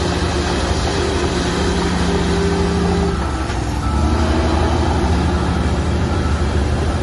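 Heavy diesel engine of earthmoving machinery running steadily under load. About three seconds in its note drops and falls quieter for a moment, then picks up again at a changed pitch.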